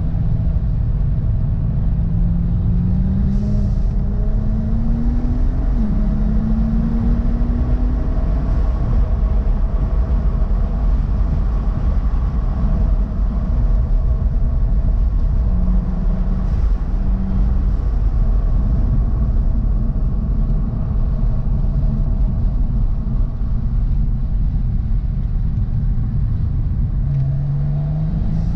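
Interior sound of a 2011 BMW 135i's N55 turbocharged inline-six under hard driving on track: the engine note climbs under acceleration, drops at an upshift about six seconds in, and climbs again. Through the middle the engine tone sinks into a heavy rumble of road and wind noise at speed, and near the end it rises again as the car accelerates.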